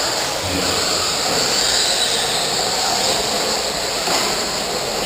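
Radio-controlled stadium trucks running on the track: a steady high whirr of several small motors and tyres with no single sound standing out.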